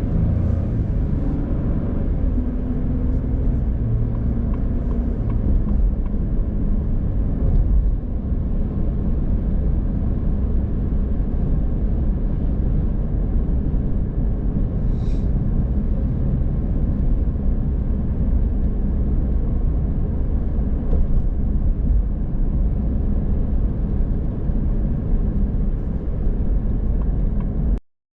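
Car on the road: a steady low rumble of engine and tyre noise that cuts off suddenly near the end.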